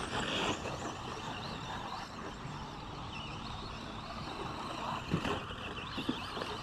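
Radio-controlled 2WD short course trucks racing, their motors whining and changing pitch as they speed up and slow down. There is a brief brighter squeal just after the start and a sharp knock about five seconds in.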